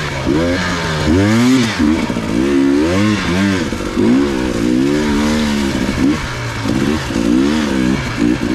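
Enduro dirt-bike engine revving up and down over and over as the rider works the throttle on and off, with the pitch rising and falling about once or twice a second.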